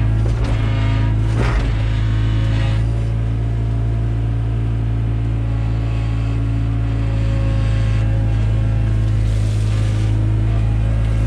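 Takeuchi TB175 excavator's diesel engine running at a steady speed, with a few brief noisy surges in the first three seconds.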